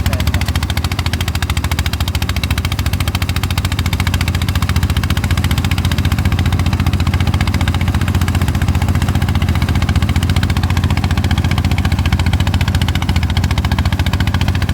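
Engine of a rice threshing machine running steadily, a fast, even pulsing with no break.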